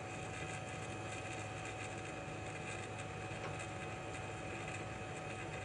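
Hot air rework station blowing steadily to preheat an iPhone 12 logic board. It makes an even rush of air with a faint steady whine.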